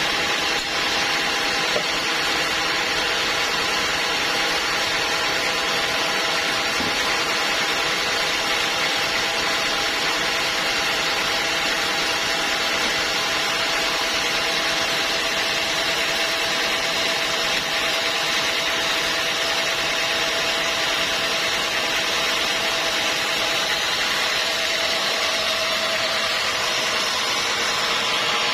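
Sawmill saw running steadily through a teak log: continuous machine and cutting noise with a faint whine that holds one pitch.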